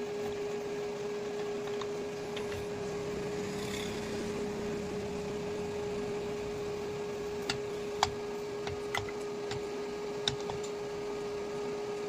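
Electric motor, likely the grinder of a homemade mini cutting machine, running unloaded with a steady hum at one unchanging pitch, with a few light clicks and taps in the second half.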